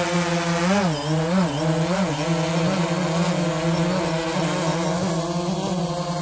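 DJI Phantom 3 Advanced quadcopter's motors and propellers running with a steady buzzing hum whose pitch wavers up and down about one to two seconds in.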